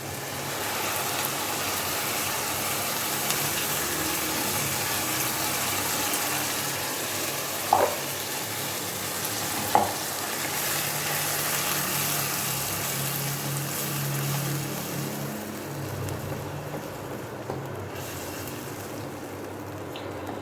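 A ground onion and green-chilli paste sizzling as it fries in hot oil with browned onions, being stirred in the pan. There are two short knocks about eight and ten seconds in, and the sizzle quietens a few seconds before the end.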